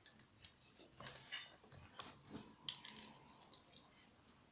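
Faint clicks of plastic Lego bricks being handled and pressed together, a few sharp clicks spread out among quiet handling.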